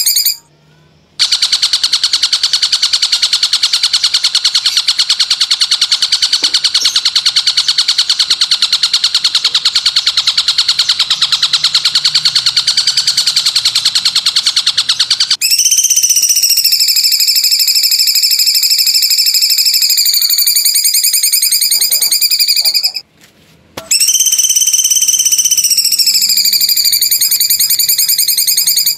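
A recorded high-pitched buzzing trill, very fast and even, held in long unbroken stretches: one of about fourteen seconds, then two shorter ones with a slight wavering in pitch, each broken off by a short silence.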